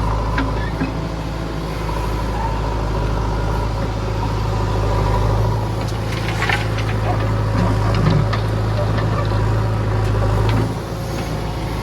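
Heavy diesel engine running steadily at a constant low pitch, with a few short knocks and clatter around the middle. The engine note eases slightly near the end.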